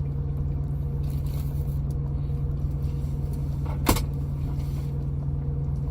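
Steady low drone of an idling truck engine, with one sharp click about four seconds in.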